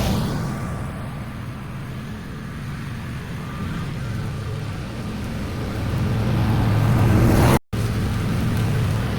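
Petrol lawn mower engine running steadily, getting quieter for a few seconds and then louder again as it moves away and comes back, with a split-second cut to silence near the end.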